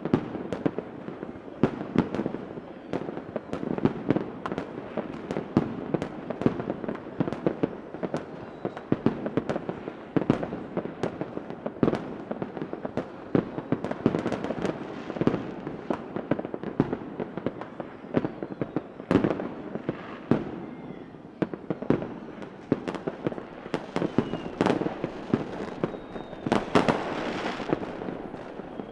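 Fireworks going off in a dense, continuous barrage: many sharp bangs and pops over steady crackling, with a few faint whistles near the end.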